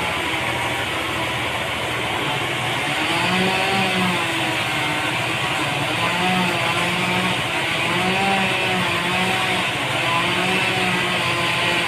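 Sawmill machinery running steadily, its pitch wavering up and down every second or two as the saw works through a trembesi log.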